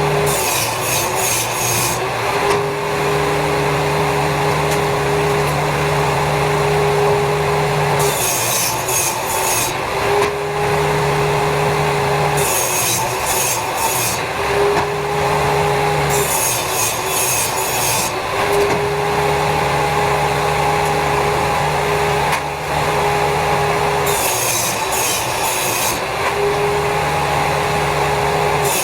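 Power saw cutting wood in a series of passes: a steady motor hum, interrupted every few seconds by a harsh, crackling stretch of cutting.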